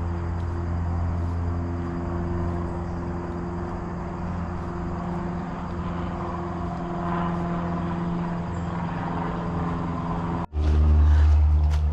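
A steady, even engine drone. Near the end it drops out for an instant and comes back louder.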